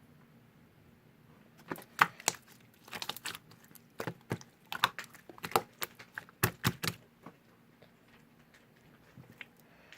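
A run of irregular light clicks and taps, several to a second, starting about two seconds in and dying away after about seven seconds, with one more near the end.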